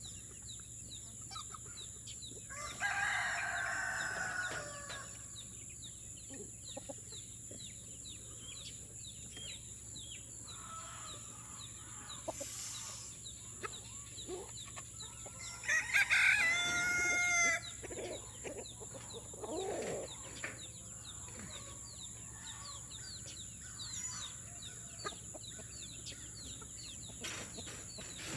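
Roosters crowing twice, one long crow about three seconds in and a louder one about halfway through, with hens clucking softly between. A steady high-pitched tone sits underneath throughout.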